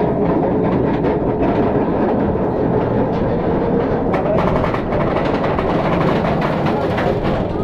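Bolliger & Mabillard dive coaster train climbing its chain lift hill: a steady mechanical clatter of the lift chain, with rapid clicking from the anti-rollback dogs.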